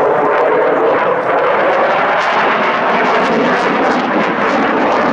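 Airplane engine noise, loud and steady.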